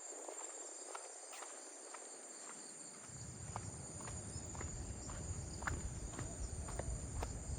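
Insects chirring steadily and high-pitched in tropical vegetation, with footsteps on a path about twice a second. A low rumble joins about three seconds in.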